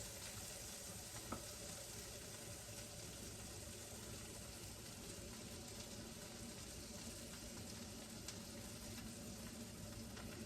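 Butter and pancake batter sizzling steadily in a hot frying pan, with one light tap about a second in.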